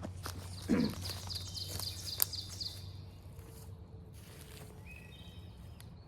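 Wild songbirds singing: a fast trill of repeated high notes over the first few seconds, with more high calls near the end. A louder low call sounds about a second in, and a sharp click comes just after two seconds.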